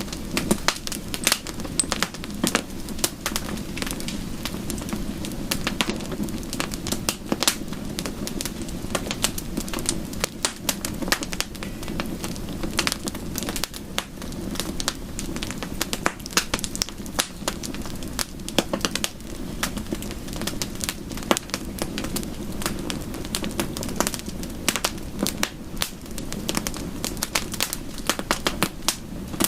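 Wood fire in a fireplace crackling, with frequent sharp pops over a steady low hum.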